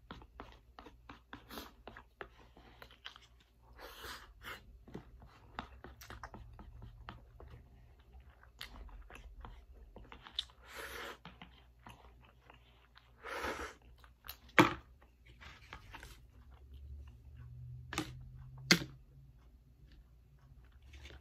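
A person chewing and eating spicy stir-fried noodles close to the microphone: a steady run of small mouth clicks, a few louder noisy bursts about halfway through, and a few sharp clicks in the second half.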